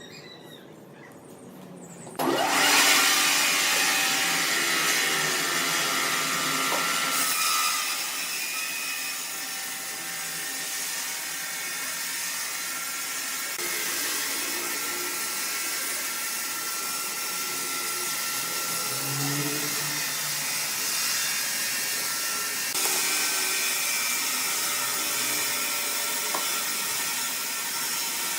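Power woodworking machine cutting wood: a loud, steady machining noise that starts suddenly about two seconds in and carries on without a break.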